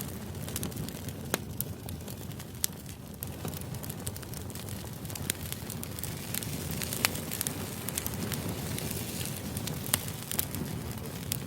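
Crackling fire ambience used as background white noise: a steady low rumble with irregular sharp crackles and pops.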